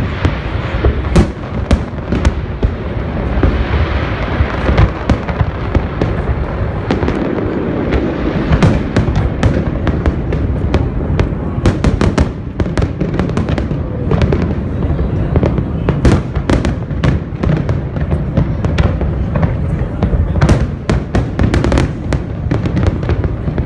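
Aerial fireworks shells bursting in rapid succession: many sharp cracks and bangs over a steady low rumble, with the crackling getting thicker about eight seconds in.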